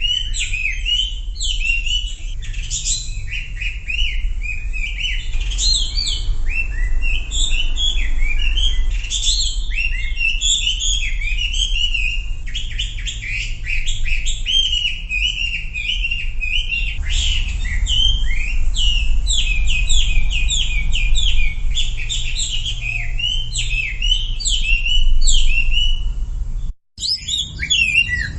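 Songbird known in Indonesia as wambi, in a loud, continuous run of rapid high chirps and twitters, with a steady low hum beneath. Near the end the sound drops out for an instant, then the chirping resumes.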